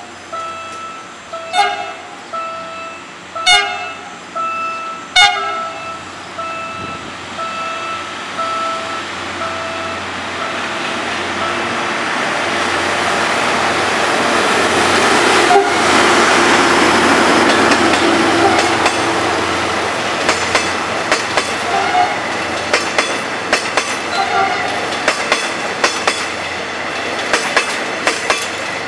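A single-pitched warning tone pulses on and off for the first several seconds. Then a diesel-hauled passenger train approaches and passes close by, loudest about halfway through. It ends with a rapid clickety-clack of the coaches' wheels over the rail joints.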